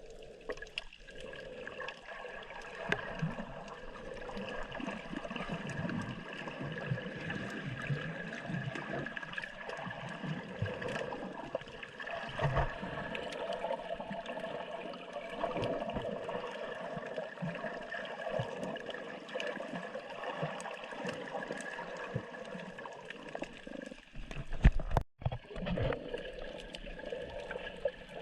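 Water gurgling and sloshing, with a brief loud bump near the end.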